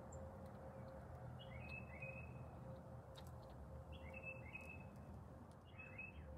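A bird somewhere off in the background giving short chirping phrases, three times about every two seconds, faint over a steady low hum.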